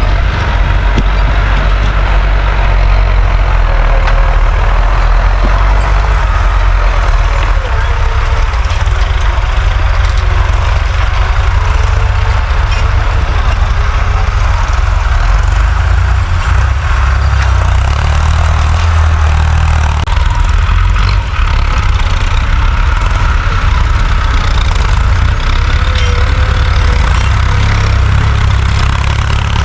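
Farm tractor engine running steadily while plowing, a continuous low rumble.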